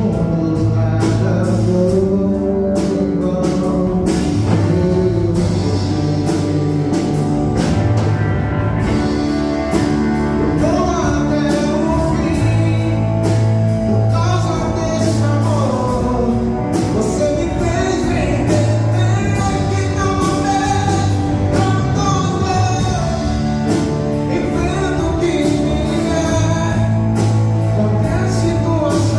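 Live worship band playing a rock-style gospel song, with a singer over drums and guitar.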